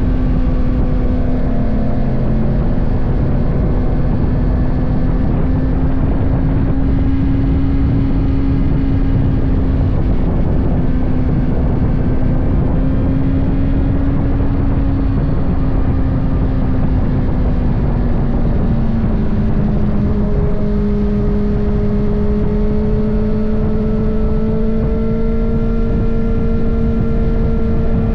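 Kawasaki ZX-6R's 636 cc inline-four engine running at a steady cruising pitch under way. Its note dips slightly about two-thirds through and then holds steady, with wind rushing over the microphone beneath it.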